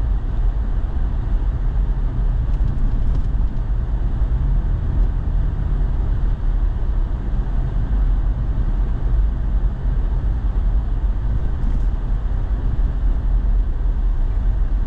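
Steady low rumble of a four-wheel-drive truck driving over compacted snow: engine and tyre noise heard from inside the cab.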